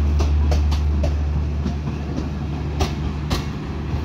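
Passenger train coaches rolling past on the rails: a steady low rumble with irregular sharp wheel clicks over the rail joints, easing off a little as the last coaches go by.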